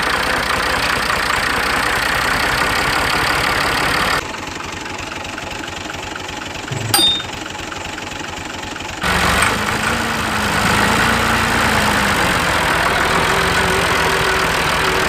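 A motor running steadily in three stretches, changing abruptly about four and nine seconds in, with a sharp click about seven seconds in.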